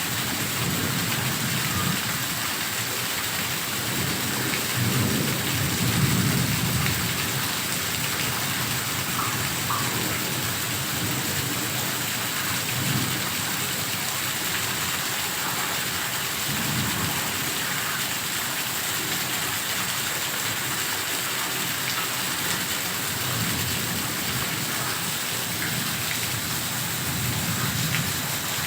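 Heavy rain falling steadily, with low rumbles swelling up several times, the strongest about five to seven seconds in.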